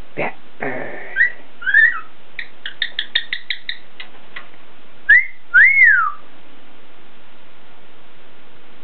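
Cockatiel whistling: a few short notes, then a quick run of about eight clipped chirps, then two loud swooping whistles that rise and fall about five seconds in. Two short rough, scratchy sounds come right at the start.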